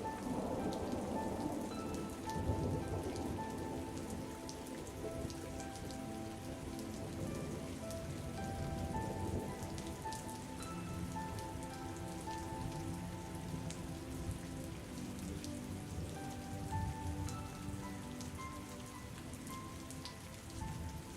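Steady rain falling, a continuous hiss with scattered sharp drop clicks, under soft, slow instrumental music of held notes.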